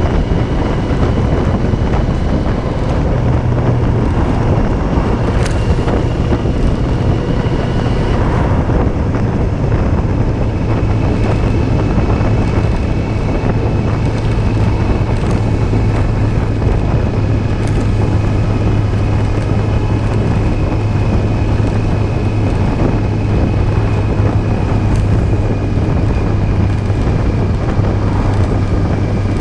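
Yamaha Fazer 600 motorcycle's inline-four engine running at a steady road speed, with wind rushing over the bike-mounted camera's microphone. The engine note dips slightly about four seconds in, then holds steady.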